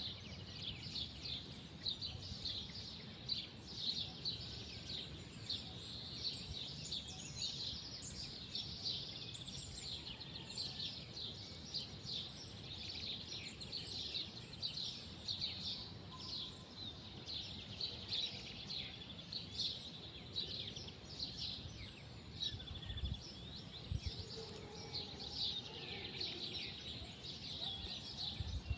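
Many small birds chirping and twittering without a break, over a steady low rumble of outdoor background noise.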